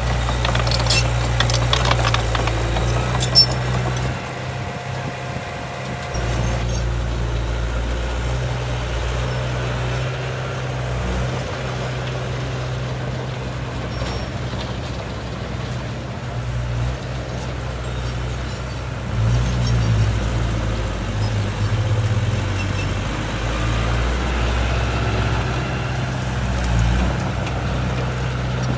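Diesel engine of heavy earthmoving machinery running steadily with a deep hum. There are a few sharp clicks and one knock in the first few seconds.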